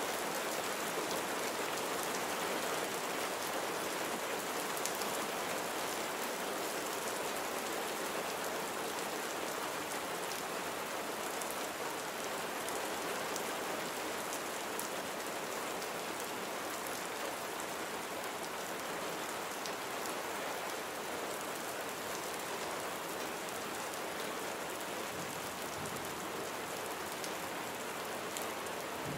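Steady rain falling and pattering on surfaces, an even hiss with fine individual drop ticks.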